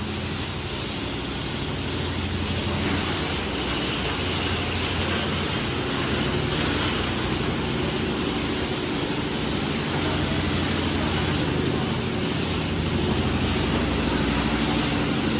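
Fully automatic PET blow-moulding machine running in production: a steady mechanical noise with a low hum, without clear separate blasts or knocks.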